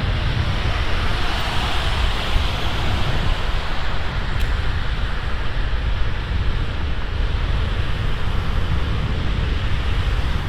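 Wind rushing over the microphone of a camera on a moving bicycle: a steady, loud roar with a heavy low rumble.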